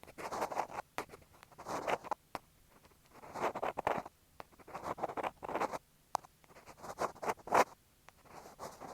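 Ear pick scraping and scratching on an in-ear earphone microphone, in short irregular strokes with quiet gaps and a few sharp clicks.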